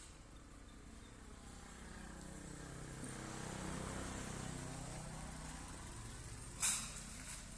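A car engine running, growing louder to a peak around the middle and then fading. A sharp click comes near the end.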